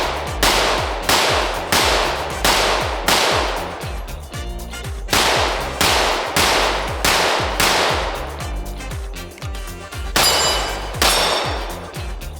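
Ported Glock 17 pistol with a Lone Wolf Alphawolf LR01C factory-ported slide firing 124-grain Fiocchi 9mm at a steady, unhurried pace: about a dozen sharp shots roughly two-thirds of a second apart, each ringing off, with two pauses of about two seconds between strings.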